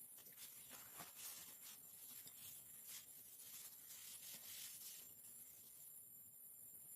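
Near silence, with faint scattered ticks and rustles that die away about five seconds in.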